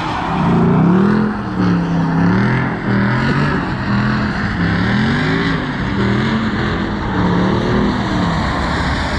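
A vehicle's engine revved hard, rising and falling in pitch over and over, as in a burnout, over a steady rushing noise.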